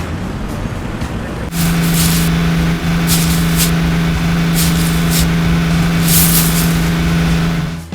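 Cartoon vehicle sound effects: a low engine rumble, then from about a second and a half in a steady droning vehicle tone with short hisses like an air brake, ending abruptly.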